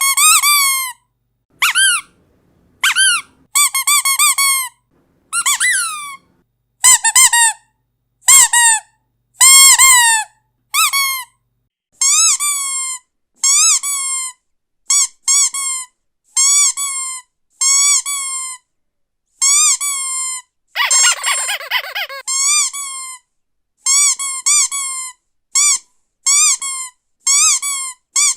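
Rubber squeaky dog toy squeezed again and again, about one short squeak a second, each bending up and down in pitch. One longer, rougher squeak comes about three-quarters of the way through.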